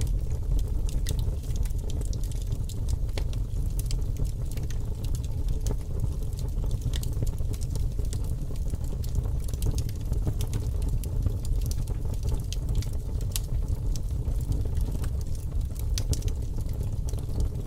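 Fire crackling: a steady low rumble with frequent, irregular sharp crackles and pops.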